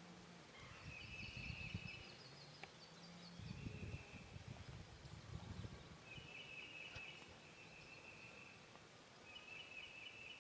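Faint songbird song: a few drawn-out, high trilled phrases a few seconds apart, over a low wind rumble that fades after the first few seconds.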